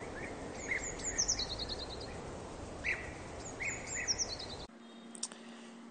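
Songbirds chirping over a steady outdoor background hiss, with repeated short chirps and falling trills. The birdsong and hiss cut off abruptly about four and a half seconds in, leaving a faint steady hum.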